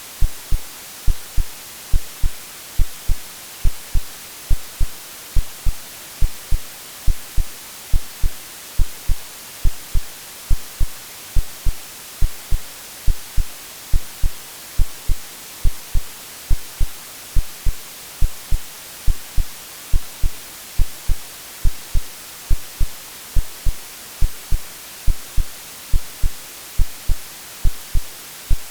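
Synthetic heartbeat, a steady rhythm of low, soft thumps, laid over a constant white-noise hiss: a womb-like sleep sound for soothing a baby.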